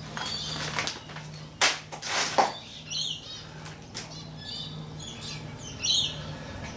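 Small birds chirping, with short repeated song phrases, over a steady low hum. About two seconds in, two loud short handling noises.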